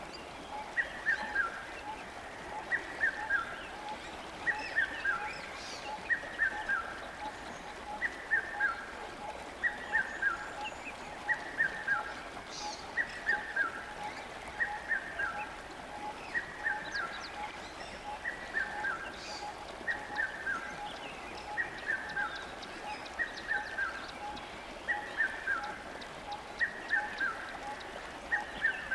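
A bird calling a short, falling two- or three-note phrase, repeated very evenly about every second and a half to two seconds, over a faint, rapid pulsing note.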